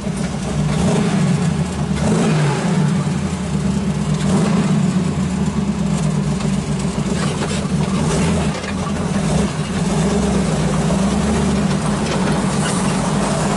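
383 stroker small-block V8 in a 1937 Chevy truck running steadily, with a slight change in pitch about two seconds in.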